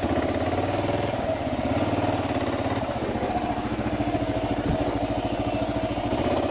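Kawasaki KLR650's single-cylinder engine idling steadily with an even pulsing beat.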